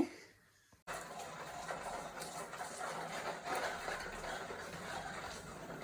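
Under a second of dead silence, then a steady low background noise of a room that starts abruptly about a second in, with nothing distinct standing out.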